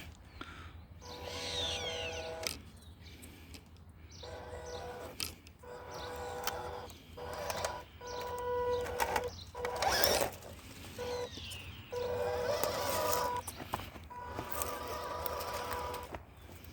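A small electric RC crawler's motor and gearbox whining in repeated short bursts of throttle with brief pauses, the whine steady within each burst. There is a louder crunching scrape about ten seconds in.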